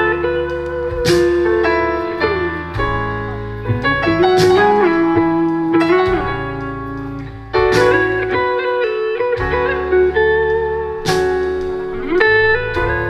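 Instrumental break in a live band song with no vocals: a guitar plays a melodic line with some sliding notes over a steady bass, with a few sharp cymbal-like hits.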